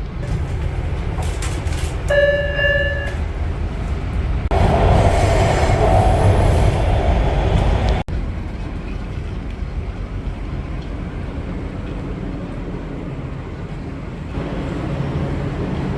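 LA Metro train running with a steady low rumble. A short electronic chime sounds about two seconds in. The noise then grows louder and rushing for a few seconds, cuts off abruptly about eight seconds in, and gives way to a quieter steady rumble.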